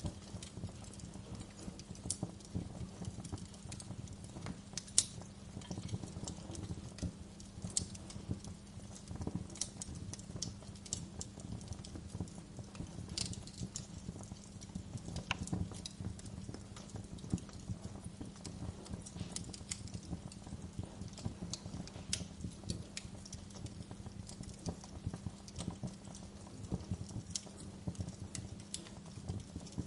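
Wood fire crackling: irregular sharp snaps and pops, one louder pop about five seconds in, over a low steady background.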